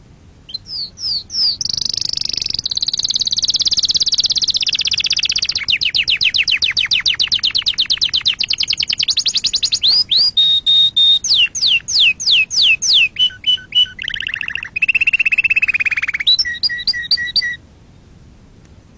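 Domestic canary singing one long unbroken song: a few rising notes, then a run of rapid trills and rolls, each at a different pitch, stopping abruptly near the end.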